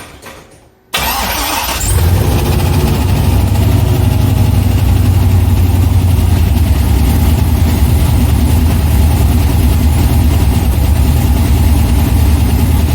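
A C6 Corvette's junkyard LS V8 firing up for the first time: a few clicks, then about a second in the engine catches and settles into loud, steady running.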